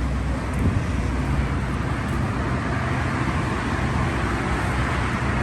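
Straight-piped BMW M4's twin-turbo inline-six idling steadily with a low drone.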